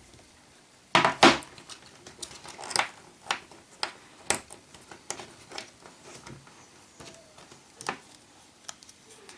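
Small hard clicks and taps of iPhone 4 internal parts and small repair tools being handled and pressed into place, a loud double click about a second in, then scattered lighter ticks.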